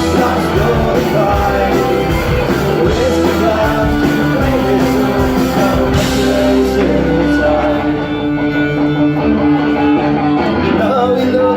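A rock band playing an instrumental passage with guitar, with sustained notes and no sung words.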